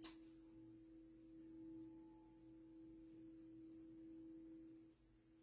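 Faint steady hum of an electric cut-and-emboss machine's motor running as a card panel passes through, dipping briefly near the end.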